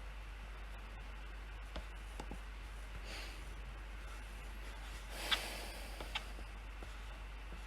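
A few scattered single clicks of a computer keyboard and mouse in a lull between bursts of typing, over a low steady hum. Two short soft rushes of noise, the second topped by the loudest click, come a few seconds in.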